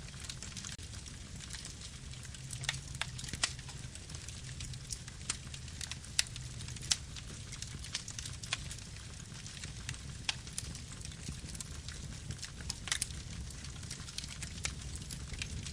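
Wood fire burning with irregular sharp crackles and pops over a steady low rumble of flames.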